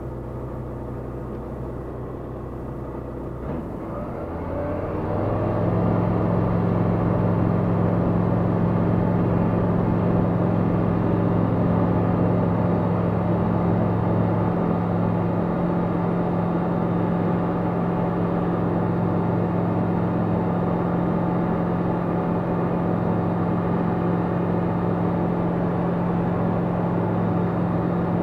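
Tecnam P96 Golf light aircraft's Rotax 912 engine and propeller opening up to takeoff power. The pitch and loudness rise over a second or two, about four seconds in, and then it holds a steady, even drone at full power.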